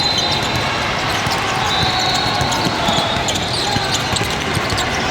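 Basketball game noise in a gym: a ball bouncing on the court, with scattered knocks of play over a steady din of voices.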